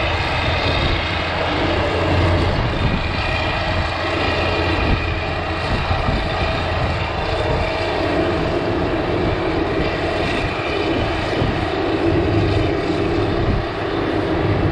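Heavy diesel engines of snowcats and tractors running steadily under load while working a corn silage pile.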